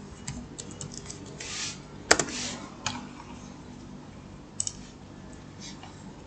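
Computer keyboard keys being typed in irregular clicks, with one much louder key strike about two seconds in, then only a couple of faint clicks.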